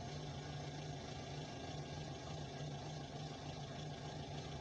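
A vehicle engine idling with a steady low hum and a constant low drone, heard from inside a car's cabin.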